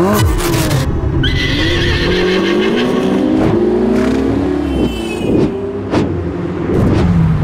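Ferrari sports car engine revving and accelerating hard, its pitch climbing and dropping back several times through gear changes, with a few sharp cracks.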